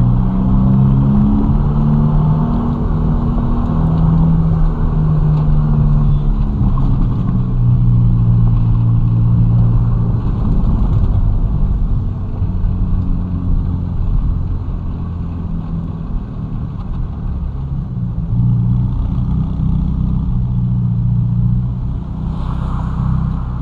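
Ferrari Roma's twin-turbo V8 engine pulling the car along in city driving, its pitch stepping up and down as the revs change.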